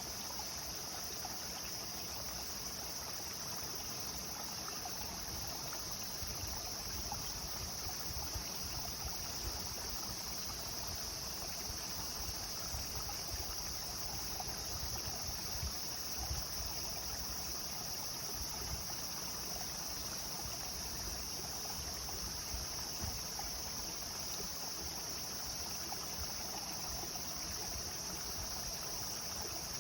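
Clear river water flowing and babbling steadily over stones, an even rushing sound with a constant high hiss above it.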